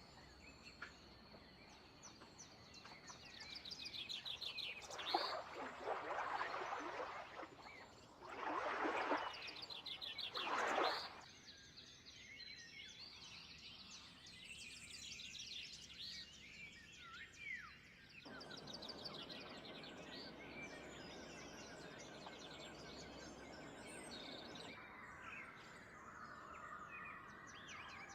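Wild birds chirping and trilling over outdoor background noise, with three louder rushing surges of noise between about four and eleven seconds in and a steadier rush later on.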